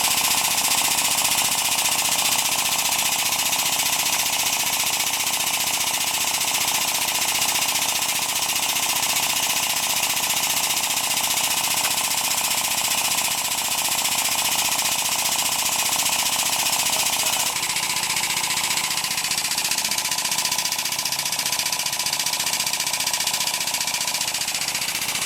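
Omni Arm landing-gear handling machine's motor and hydraulic pump running steadily, a loud mechanical hum with a strong hiss; its tone shifts about 17 seconds in.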